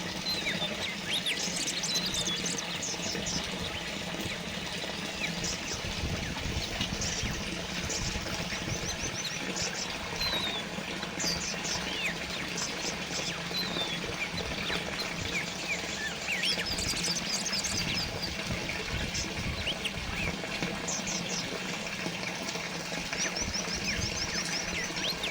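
Small water fountain trickling and splashing steadily, with small birds chirping and giving short, rapid trills now and then.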